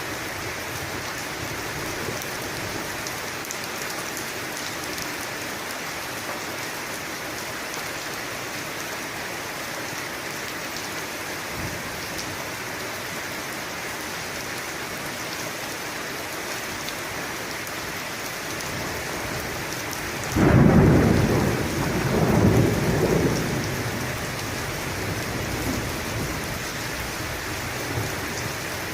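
Steady rain falling in a thunderstorm. About two-thirds of the way through, a thunderclap breaks in and rumbles for a few seconds, swelling twice before fading back under the rain.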